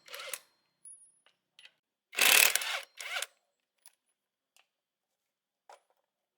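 Hand tools on metal: a loud burst of rapid clicking about two seconds in, then a few scattered light clicks and taps.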